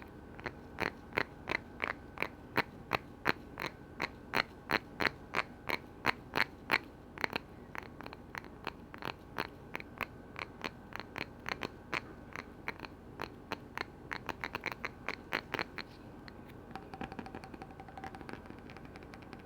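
Steady tapping on a lid, sharp crisp taps about three a second, becoming quicker and softer towards the end, then soft rapid taps.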